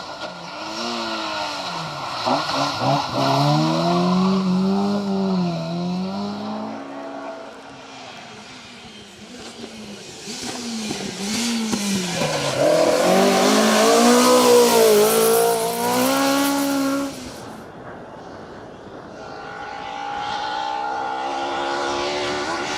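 Ford Escort Mk2 rally car engines revving hard and changing gear as cars drive past on a stage. There are two passes, the second louder, with a loud hiss of tyre noise during it, and a quieter engine note near the end.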